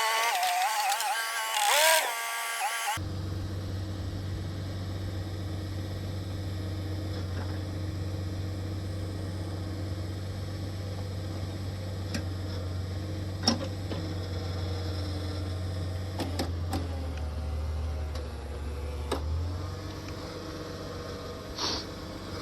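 Music for about three seconds, then an abrupt cut to a post-hole digging rig's engine running steadily with a low hum and a few sharp clicks; the hum drops lower for a couple of seconds about two-thirds of the way through.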